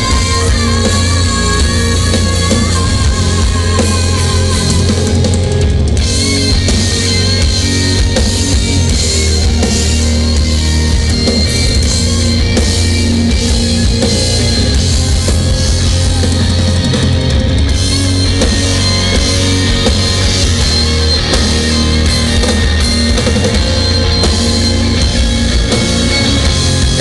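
Live rock band playing at a sound check, with drum kit, distorted electric guitars and bass going without a break. A sung line wavers over the band in the first few seconds.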